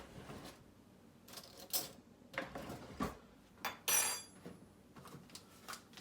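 Dishes and cutlery clinking and knocking at a kitchen counter: a few light knocks, then one louder ringing clink nearly four seconds in.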